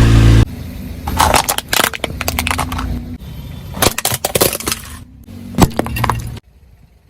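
Brittle objects being crushed under a car's tyre: a run of sharp cracks and snapping breaks at uneven intervals, the loudest about two-thirds of the way through. A car engine's low hum cuts off about half a second in.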